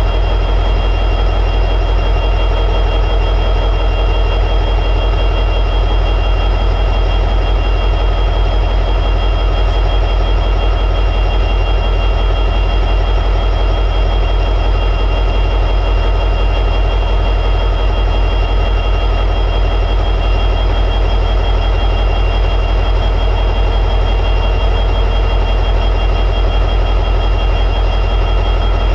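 EMD 710G3B two-stroke diesel prime mover of an SD60E locomotive running steadily in high idle: a constant low drone with several steady high-pitched tones above it.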